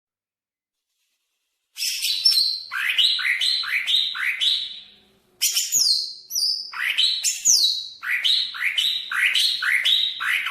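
Cucak ijo (green leafbird) singing: after a couple of seconds of silence, fast runs of sweeping whistled and chirping notes, about four a second, with a brief pause about midway.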